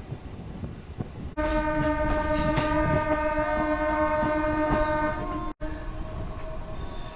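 A train horn sounds one long steady blast for about four seconds over the rumble of a moving local train. It cuts off suddenly, and the train's running noise and fainter steady tones carry on.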